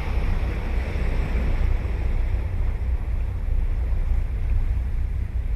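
Ocean waves on the beach: the hiss of a wave's wash fades over the first two seconds, over a steady low rumble of wind buffeting the microphone.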